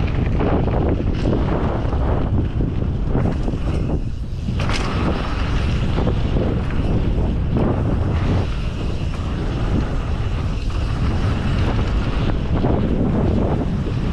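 Wind rushing over the microphone of a mountain bike rider's camera during a fast descent, over a steady low rumble from the tyres on the dirt trail, with scattered knocks and rattles from the bike over bumps.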